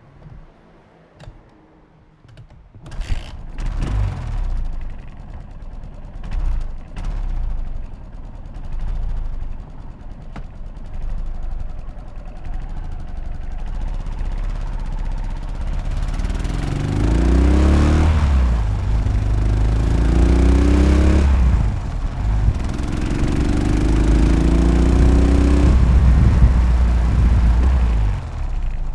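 Yamaha SR500's single-cylinder four-stroke engine, quiet at first with a few clicks, then running on the road. About halfway in it accelerates hard, its pitch climbing and dropping back at each of two upshifts, before the throttle is rolled off near the end.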